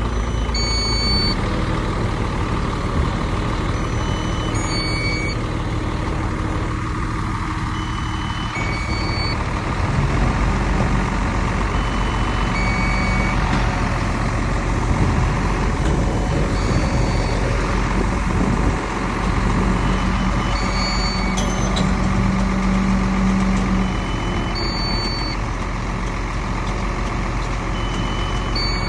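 Heavy diesel earthmoving machinery, a dump truck and a bulldozer, running steadily, with short reversing-alarm beeps every few seconds.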